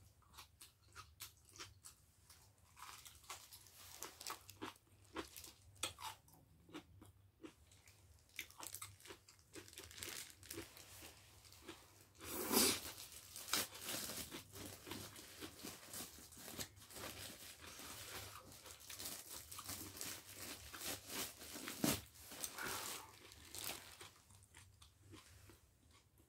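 Close-up eating sounds: crunching and chewing on a long strip of kimchi, a run of small crackles with a few louder crunches, the loudest about halfway through.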